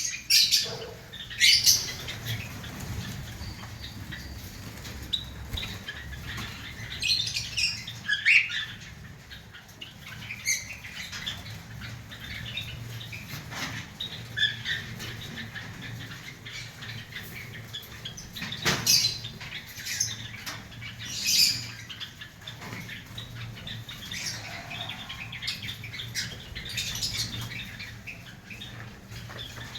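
Java sparrows chirping in short, scattered calls, with wing flutters and sharp knocks now and then, over a low steady hum.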